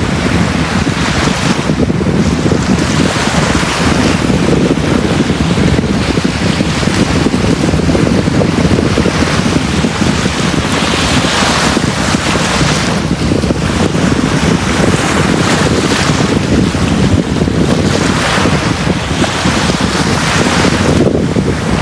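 Sea waves breaking and washing on a beach in a continuous rush, swelling every few seconds, with a heavy low rumble.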